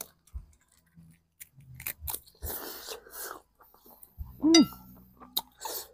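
Close-up chewing and biting as boiled chicken meat is gnawed off the bone, with wet mouth clicks and smacks. About four and a half seconds in, one short pitched vocal sound rises and falls; it is the loudest thing heard.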